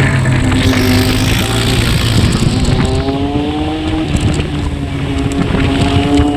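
Motorcycle engine running loudly through its exhaust, its pitch climbing, dropping back about halfway, then climbing again.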